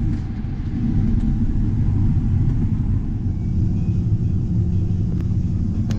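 Combine harvester running steadily while harvesting corn: a constant low engine and machinery rumble, heard from inside the cab.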